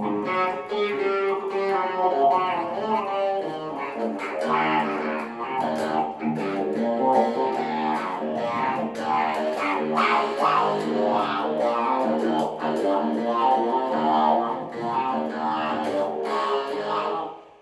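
Electric guitar played through a talk box, the notes shaped by the player's mouth and picked up by a microphone, playing a continuous riff that stops just before the end.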